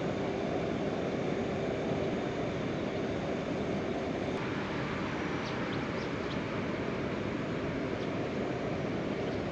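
Heavy rain falling steadily, a dense even wash of sound with no let-up.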